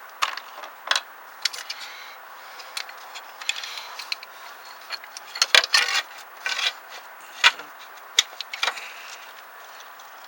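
Metal parts of a car's A/C compressor clutch clicking, clinking and rubbing as they are handled and pushed into place by hand, in irregular bursts with a cluster of louder clinks about halfway through, over a steady hiss.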